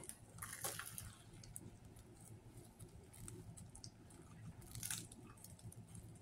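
A man biting into and chewing a Subway sub sandwich close to the microphone, with short crackly bites about half a second in and again near five seconds.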